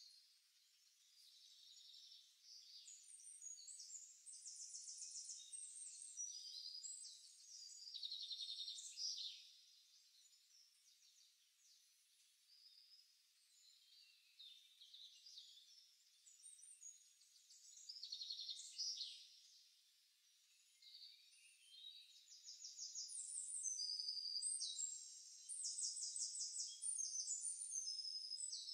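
Faint birdsong: high chirps and rapid trills from several birds, thinning out for a few seconds in the middle.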